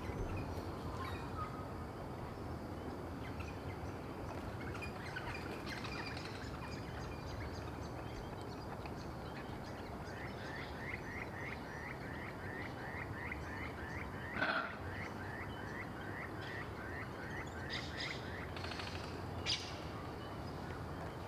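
Outdoor ambience with a steady background noise. About halfway in, a bird starts a fast run of short repeated high chirps, about three a second, lasting some eight seconds. A brief, louder sound cuts in about two-thirds of the way through.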